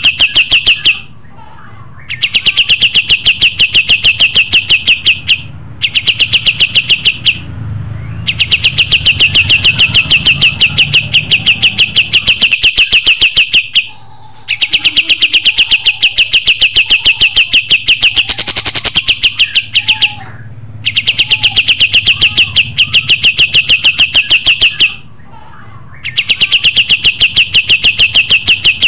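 Kapas tembak songbird singing: loud, rapid trills of sharp repeated notes, each run lasting a few seconds, broken by short pauses.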